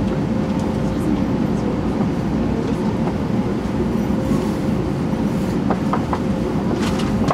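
Cabin noise of an E2-series Shinkansen at low speed, heard from inside the passenger car: a steady low rumble with a faint steady hum. A few light clicks come near the end.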